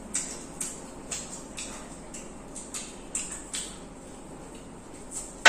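Close-miked eating sounds: chewing and mouth clicks from people eating egg rolls, faint sharp ticks at roughly two a second. One sharp knock at the very end.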